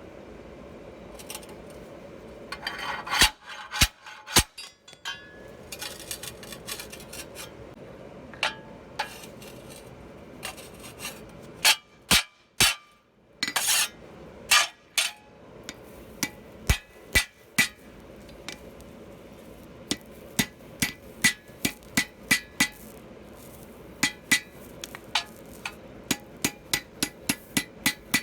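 Hammer blows on metal with a ringing clink, scattered at first, then a steady run of about two strikes a second near the end.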